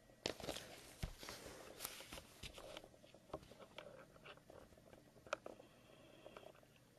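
Faint handling noise of a sealed trading-card box: scattered light taps, clicks and rustling, busier in the first few seconds and thinning out later.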